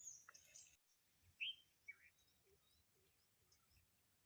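Quiet outdoor background with a few faint bird chirps, two short ones close together about a second and a half in.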